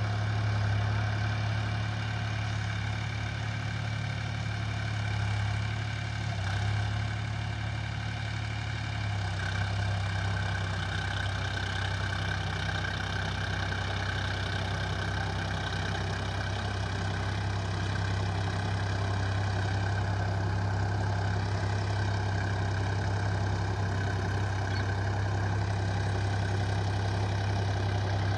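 Preet 955 tractor's three-cylinder diesel engine running steadily with a low, even note that shifts slightly about nine seconds in.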